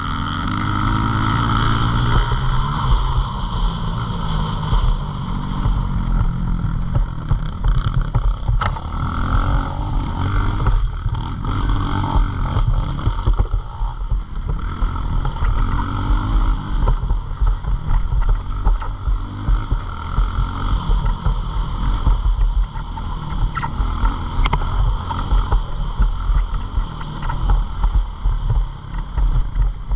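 Pit bike engine revving, its pitch climbing and dropping again and again through the gears, with wind buffeting the microphone.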